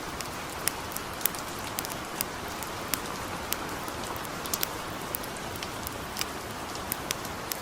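Steady light rain hissing, mixed with irregular sharp crackles and pops from a wood campfire.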